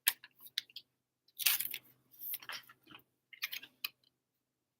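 Trading cards being handled: a few short scrapes and clicks of card stock sliding and tapping, in separate bursts about a second apart.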